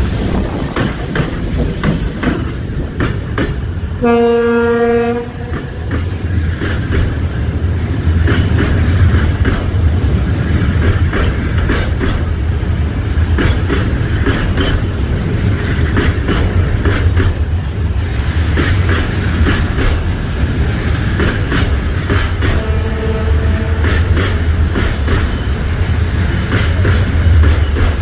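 Freight train passing close by: heavy, steady rumble with wheels clicking over the rail joints. The locomotive's horn gives one blast of about a second roughly four seconds in, and a fainter blast later on.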